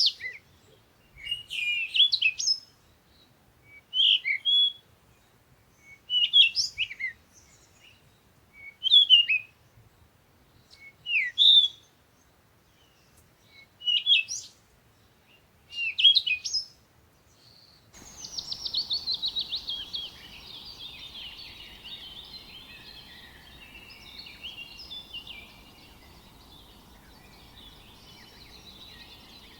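Songbird repeating a short, high chirping phrase about every two seconds. About two-thirds of the way through it switches suddenly to a dense chorus of many small birds chirping over a low steady background hiss, starting with a rapid trill.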